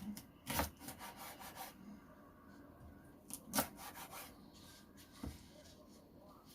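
Kitchen knife cutting through red cabbage onto a cutting board. Sharp knocks of the blade on the board come about half a second in, around three and a half seconds and just past five seconds, with quieter sawing cuts between.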